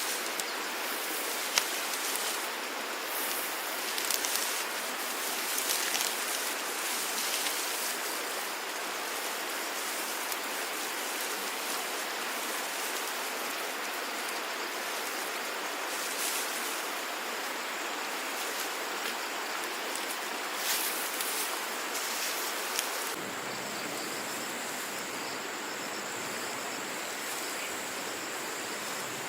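Steady rush of flowing water with scattered small splashes. About 23 seconds in the sound changes, and a steady high-pitched insect drone, like crickets, comes in over the water.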